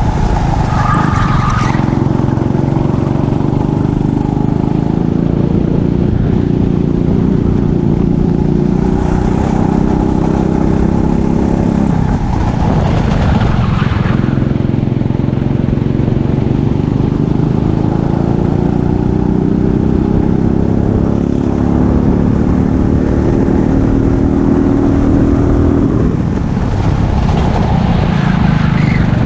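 Kart engine running hard during a race lap, its pitch climbing slowly along the straights and dropping sharply twice, about twelve seconds in and again near the end, as the throttle is lifted for corners.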